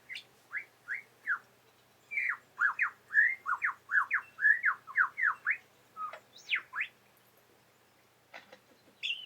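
Male lyrebird singing its display song: a fast run of short whistled notes, each sweeping downward, crowding together to about four a second in the middle, then a few higher sweeping notes before it falls silent.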